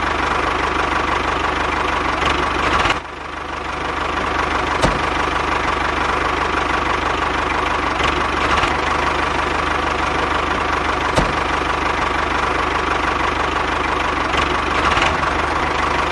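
An engine running steadily at idle, a fast even pulsing with a short dip in level about three seconds in.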